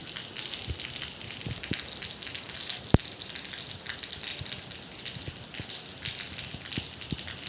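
Steady rain falling, a continuous hiss with scattered close drops knocking. A single sharp tap about three seconds in is the loudest sound.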